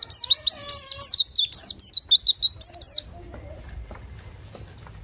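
Pleci (white-eye) singing loudly in a fast run of high chirps, each sweeping down in pitch. The run stops about three seconds in, and fainter chirps follow.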